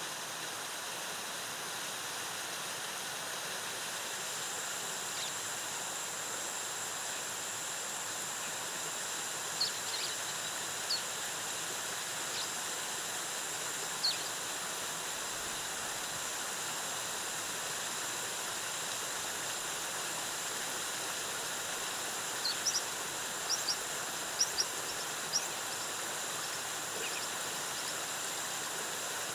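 Waterfall water cascading steadily in a jungle soundscape. A steady high whine comes in about four seconds in, and short high chirps sound a few times in the middle and in a quick run near the end.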